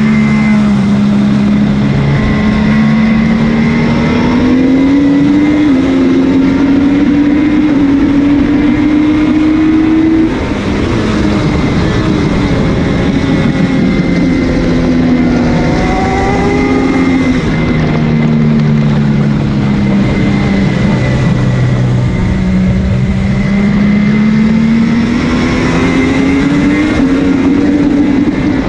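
MV Agusta F3's three-cylinder engine at racing speed, heard onboard with wind rush. The pitch climbs in steps through the gears, drops sharply as the throttle closes about ten seconds in, winds down through the downshifts, and climbs again near the end.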